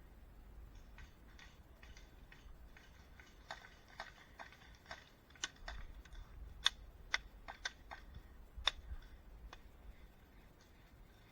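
A scattering of sharp clicks and snaps at irregular intervals, sparse at first, with the loudest ones clustered toward the middle, over a faint low rumble.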